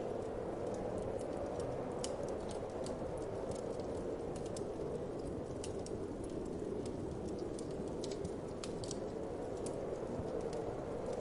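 Wood fire crackling, with scattered sharp pops and ticks, over a steady whooshing winter wind.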